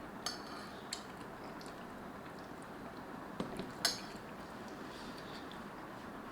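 Eating utensil clinking against a bowl of noodles: a few sharp clicks, the loudest a little after the middle, over a steady low hiss.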